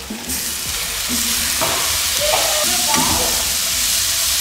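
Pieces of chicken sizzling as they fry in a nonstick sauté pan. The sizzle jumps louder just after the start as the glass lid comes off. A slotted spoon stirs the pieces, with a few short scrapes against the pan.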